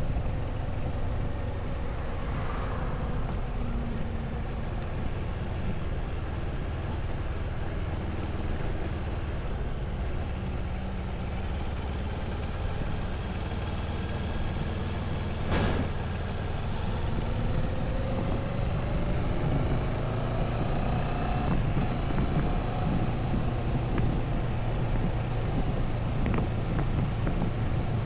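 Moto Morini 6½ Scrambler's parallel-twin engine running on the road. Its pitch falls in the first few seconds as it slows, and rises again from about sixteen seconds in as it picks up speed. A single sharp click comes just before the rise.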